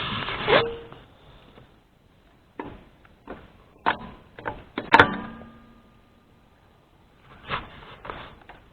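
A series of knocks and clatters, the loudest about five seconds in with a short ringing tone after it.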